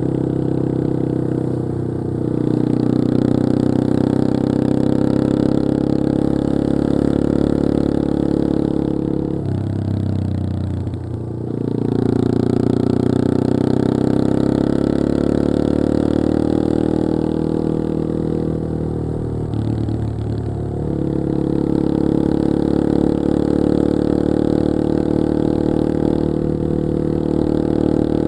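Yamaha XT225 Serow's air-cooled single-cylinder four-stroke engine running under way, pulling steadily. The throttle eases off twice, about ten seconds in and again near twenty seconds, with the engine note dropping briefly before it pulls again.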